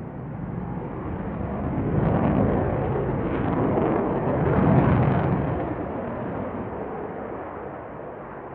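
An aircraft flying past: its engine noise builds, is loudest about five seconds in, then fades away.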